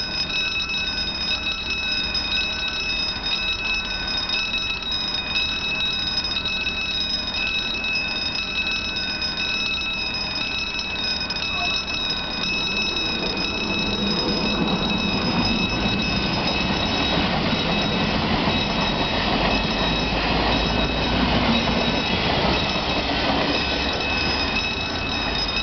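Level-crossing warning bell ringing in even, repeated strokes while an electric commuter train runs over the crossing, its rumble swelling from about halfway in and carrying on near the end.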